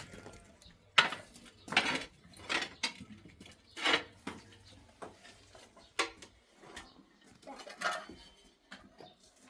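Intermittent metallic clinks and clatter: about six separate strikes spread irregularly, with quiet gaps between them.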